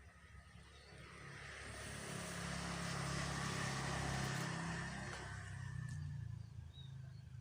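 A motor vehicle passing by: its engine and tyre noise swell up, peak in the middle and fade away again.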